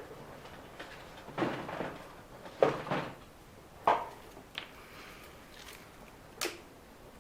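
Handling noises: about five short knocks and rattles of small objects being picked up and moved around, spread out with pauses between them.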